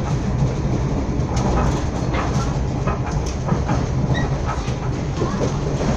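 Passenger train running along the track, heard from inside the carriage: a steady low rumble with scattered wheel clicks and rattles.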